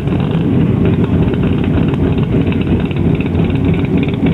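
Car engine running loudly and steadily, a dense low drone with no change in pitch.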